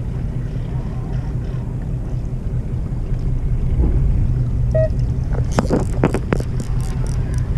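Fishing boat's engine running with a steady low hum, with wind on the microphone. A few short clicks and rattles come about three quarters of the way through.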